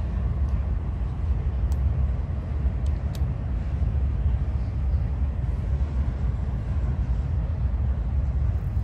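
Freight train rolling past: a steady low rumble with a few sharp clicks.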